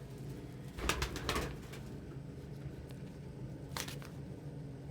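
Domestic pigeons cooing in the loft, with two short rustling sounds, one about a second in and another near four seconds.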